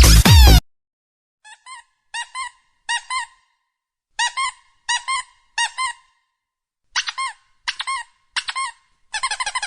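A comic squeaking sound effect, like a squeezed rubber toy: short high squeaks in three sets of three, each rising and falling in pitch, then a fast continuous run of squeaks near the end. Electronic music cuts off just after the start.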